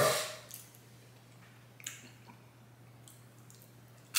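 Wet mouth sounds of chewing soft cookie: a short smack right at the start, a faint click about two seconds in, then quiet.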